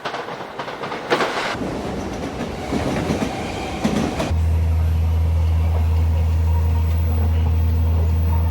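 Train on the rails: rattling and clicking at first, then about four seconds in a loud, steady low drone sets in and holds.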